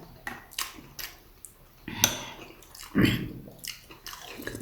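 Wet chewing and mouth sounds of people eating momos, with scattered small clicks of dishes or cutlery and two louder sounds about two and three seconds in.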